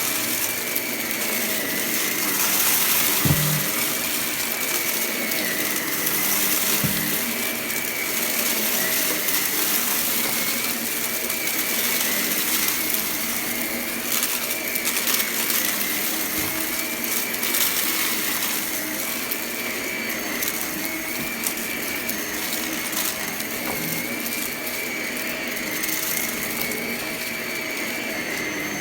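Vacuum cleaner running steadily, its high motor whine wavering in pitch about every two seconds as it is pushed back and forth. Scattered clicks and rattles come from debris being sucked up.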